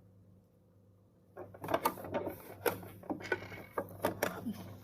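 Irregular clicks and small rattles from a Singer Quantum Stylist 9960 sewing machine as its parts are worked on during cleaning and oiling, starting about a second and a half in, over a low steady hum.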